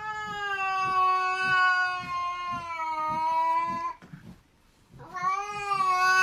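A cat yowling in two long, drawn-out calls: the first lasts about four seconds, and the second starts about five seconds in.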